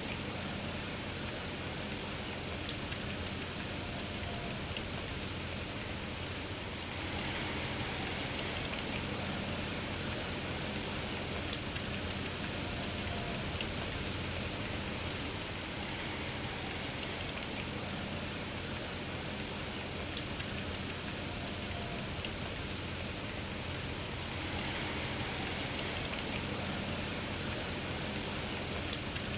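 Steady rain falling, an even hiss of drops on a surface. Four sharp clicks stand out, about every eight or nine seconds.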